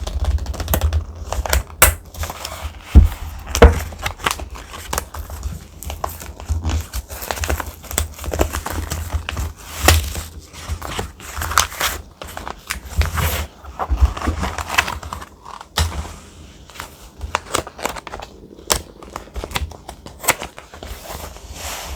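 Thick, textured paper being handled and crinkled close up, with many irregular sharp crackles and rustles.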